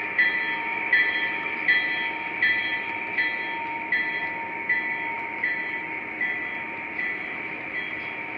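Model diesel locomotive running on the layout, its onboard sound system ringing the locomotive bell about once every three-quarters of a second over the steady running rumble of the train on the track.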